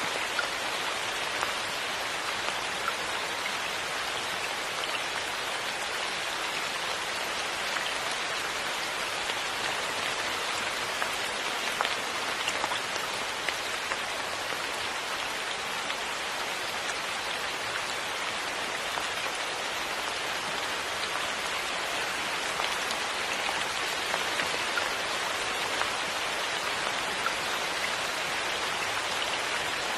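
Steady rain falling, an even hiss with many small, scattered louder drop ticks.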